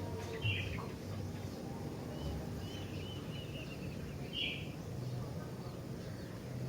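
Bulbul calling: a short bright note about half a second in, a run of quick high chirps, then another bright note near the end, over a steady low hum.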